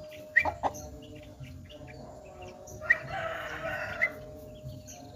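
A rooster crowing once, about a second long, starting about three seconds in, among a few short, sharp bird chirps.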